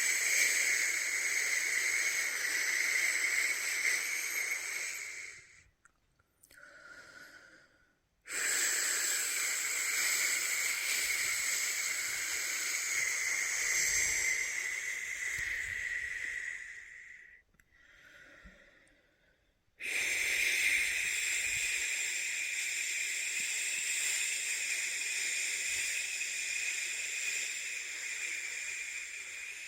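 A person shushing with long, steady 'shhh' sounds to lull a newborn to sleep, the shush-pat soothing method. Three long shushes are heard, separated by short pauses for breath about six seconds in and about seventeen seconds in; the first two pauses hold a faint, softer intake of breath.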